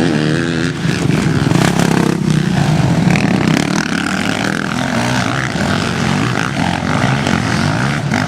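Motocross bike engines running on a dirt track, their pitch rising and falling repeatedly as the throttle is opened and closed.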